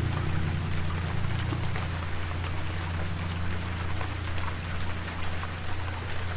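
Steady rain falling, with many individual drops heard, over a low sustained note lingering from the slowed music that thins out after about two seconds.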